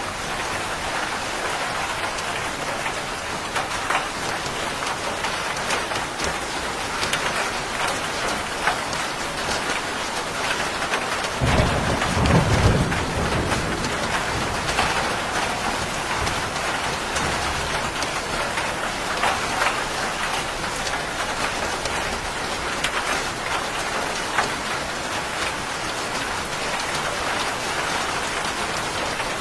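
Steady heavy rain with drops pattering on a surface, and a roll of thunder that breaks in about eleven seconds in and rumbles away over the next several seconds.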